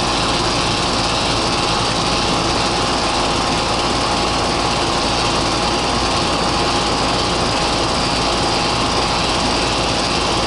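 Goodman outdoor air-conditioning condensing unit running steadily: a loud, even whoosh from its fan with a hum from the compressor.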